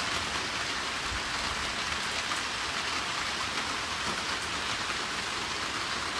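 Steady, even hiss of rain.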